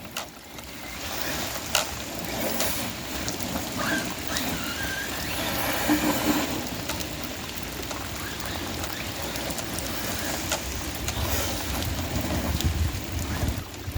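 Arrma Kraton 6S electric RC truck running on wet ground in the rain: a steady wash of rain and wet-tyre noise, with a short electric motor whine about four seconds in and a louder low rumble near the end.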